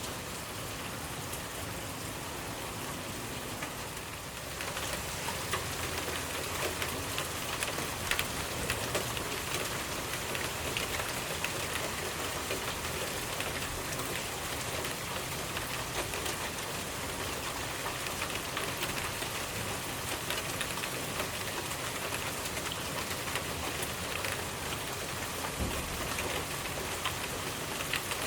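Steady rain falling, with many single drops ticking through it; it grows louder about four and a half seconds in and stays so.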